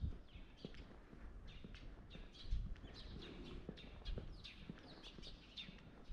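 Small birds chirping over and over in short, falling chirps, with footsteps at a walking pace underneath.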